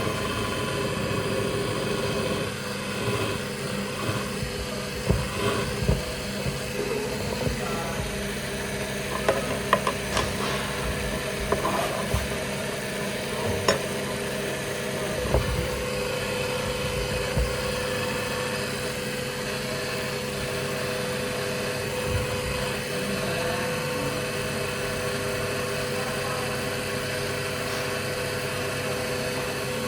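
An electric power tool running steadily with a constant hum, with a number of short knocks and clicks in the first half as work is done.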